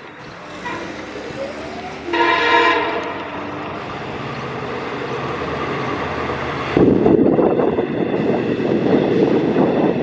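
Long Island Rail Road train horn sounding for a grade crossing: one strong blast about two seconds in. From about seven seconds a loud rushing noise takes over.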